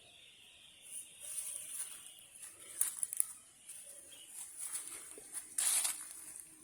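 Rural outdoor background with a faint steady high-pitched hiss, a faint steady tone in the first couple of seconds, and a few short rustles or crunches, the loudest a little past the middle.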